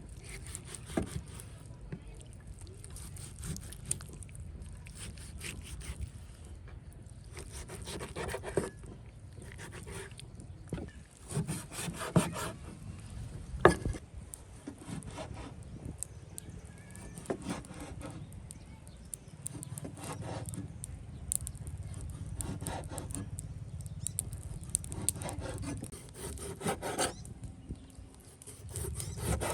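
Irregular repeated scraping and rubbing strokes, like work on wood, with a couple of sharp knocks about twelve and fourteen seconds in.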